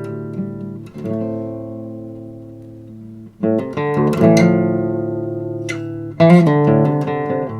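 Solo guitar playing slow chords, each one struck and left to ring out for two or three seconds, in the instrumental intro of a song.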